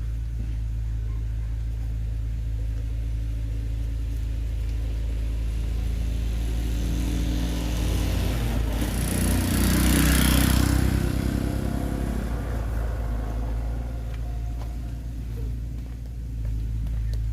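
A motor vehicle engine runs with a steady low hum. It grows louder and takes on a hiss about nine to eleven seconds in, then eases back down.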